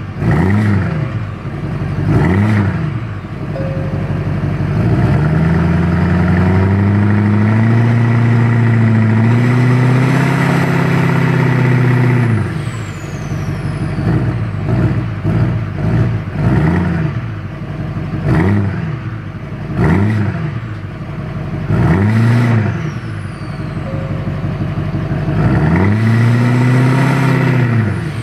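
Duramax LMM 6.6-litre V8 turbo-diesel breathing through a 4-inch aFe turbo-back exhaust with muffler, revved over and over. Quick blips alternate with two longer revs, one held for several seconds early on and one near the end, each followed by a falling whistle as the revs drop.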